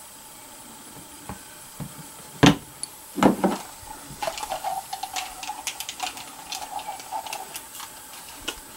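Handling noise from a rifle: a sharp knock about two and a half seconds in, a duller thud a moment later, then a run of light clicks and ticks.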